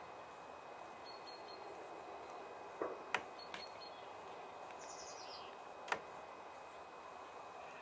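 Small birds giving short high chirps over a steady background hiss, with a quick run of high notes about five seconds in. A few sharp clicks stand out, three close together about three seconds in and one about six seconds in.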